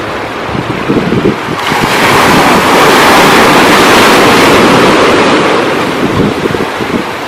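Sea surf: a wave breaking, a rushing hiss that swells about one and a half seconds in, holds, then fades near the end, over wind buffeting the microphone.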